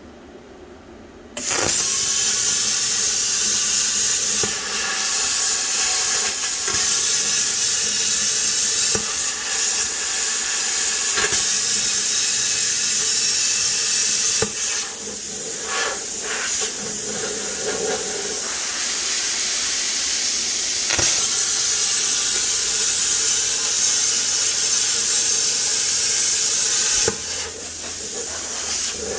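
Plasma cutter cutting an oil pan: a sudden start about a second and a half in, then a loud, steady hiss of the arc and its compressed air, with a few brief dips, easing off near the end.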